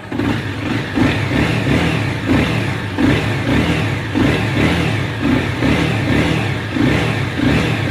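2013 Honda CBR250R's single-cylinder engine running, loud and close, with a regular swell about every three-quarters of a second.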